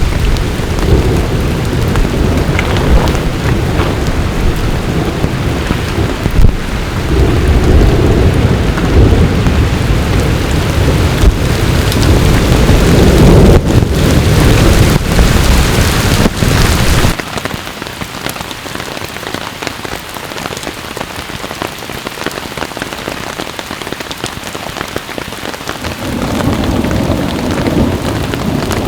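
Thunderstorm: heavy rain with deep rolling thunder. The rumble cuts off abruptly a little past halfway, leaving steady rain, and builds again near the end.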